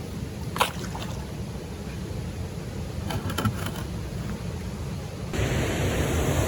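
Wind rumbling on the microphone on open water, with a few light knocks and splashes from a canoe paddle. About five seconds in, the sound changes abruptly to a louder steady rush of water from a waterfall.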